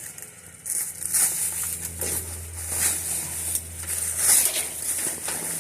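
Rummaging through trash in a dumpster: bags and packaging crinkling and rustling in irregular bursts.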